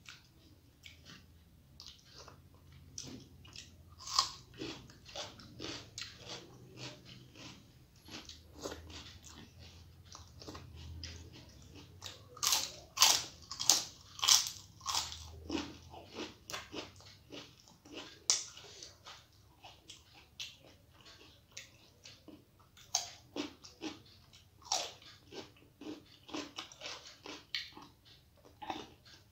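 A person chewing and crunching crisp papad, a long run of short, sharp crunches, loudest from about twelve to sixteen seconds in.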